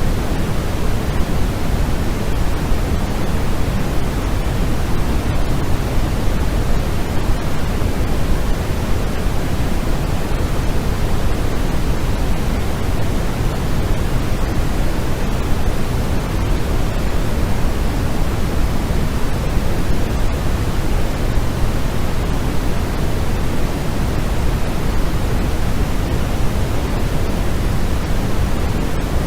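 Steady, unbroken synthetic noise for sleep and relaxation, heaviest in the low end and thinning toward the top: a continuous hiss-and-rumble with no changes.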